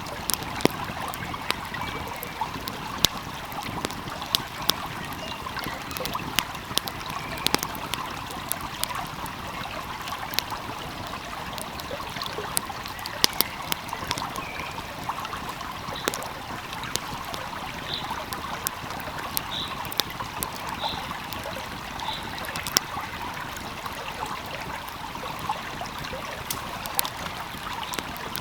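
Wood fire crackling with irregular sharp pops over the steady rush of a flowing stream.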